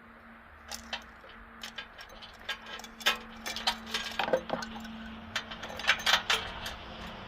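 Chainsaw bar and saw chain being taken off and handled: a string of irregular small metal clicks and clinks as the chain links rattle. They are sparse at first and come thicker from about three seconds in.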